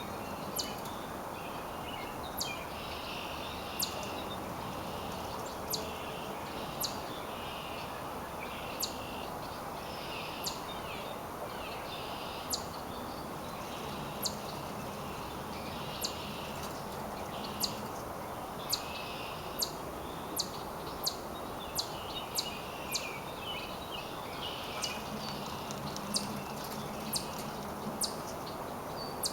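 Wild birds chirping and calling over a steady background hum, with short high ticks about once a second that come faster in the second half.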